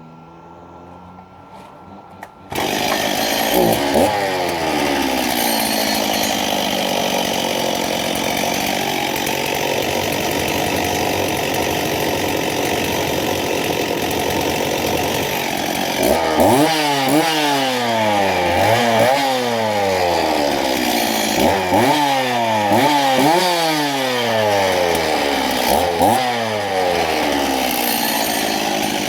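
Stihl 024 two-stroke chainsaw, with bar and chain removed, starting about two and a half seconds in and running. From about the middle on it is revved in a run of quick blips, each rising and dropping back, about one a second.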